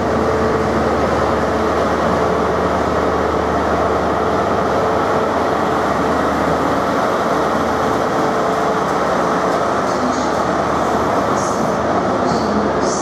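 A First Great Western InterCity 125 (HST) with Class 43 power car 43137 passes close along the platform, its diesel engine running with a steady hum and a dense rumble of wheels on rail. Towards the end a diesel multiple unit is going by instead, and sharp clicks join in about ten seconds in.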